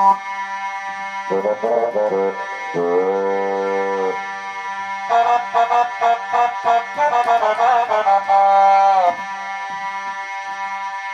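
Korg Pa600 arranger keyboard playing an accordion-like oriental voice from a Kronos sound set over a steady held drone note. It plays a short melodic run, then a held note. A longer, faster ornamented run follows and ends on a sustained note. After that only the drone continues.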